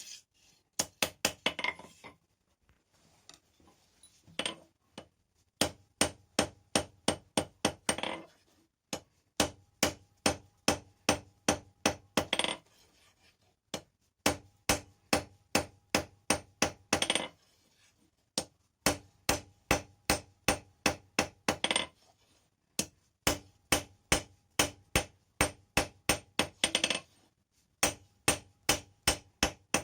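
Blacksmith's hand hammer striking hot rebar on an anvil in runs of blows, about three a second, with the anvil ringing between strikes. Short pauses break the runs, as the piece is turned or reheated.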